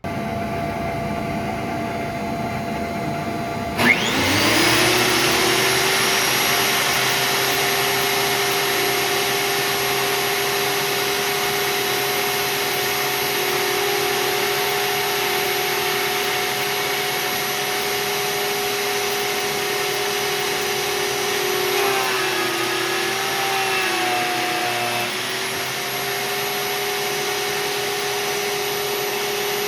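A steady machine hum starts, then about four seconds in the Vevor 13-inch three-blade benchtop planer's motor starts with a rising whine and runs steadily. From about 22 to 25 seconds its pitch sags as the thick oak board loads the cutterhead, then it comes back up to speed.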